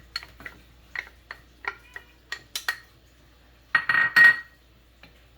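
A metal utensil clinking and tapping against cookware: a quick run of light clinks, then a louder ringing clatter about four seconds in.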